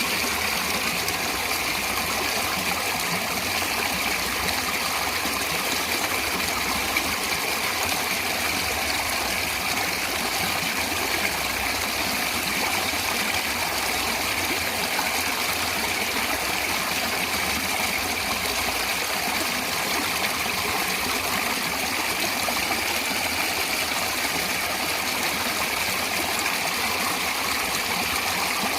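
Natural flowing water, such as a stream, rushing steadily in an even, unbroken sound.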